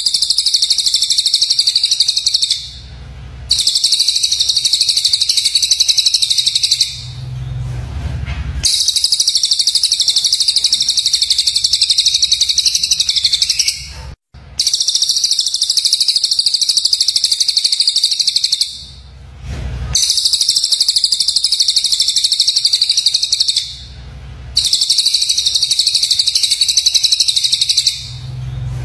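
Songbird giving harsh, rapid, buzzy chattering calls in long bursts of a few seconds each, about six bursts with short pauses between them. The calls are the rough 'tembakan' used as masteran material for training murai batu.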